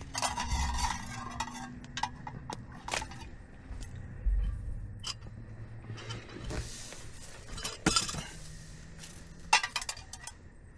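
Irregular clinks and knocks of cookware and utensils being handled, with a few short rustling bursts between them.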